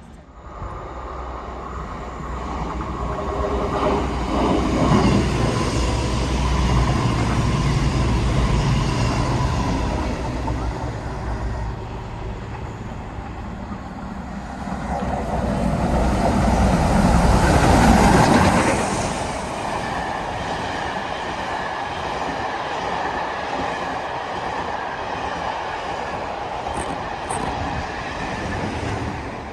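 Diesel passenger train passing. Its low engine note builds quickly and peaks about five seconds in, a second louder rush of wheel and rail noise peaks around eighteen seconds in, and then the train runs on more evenly with a faint high whine.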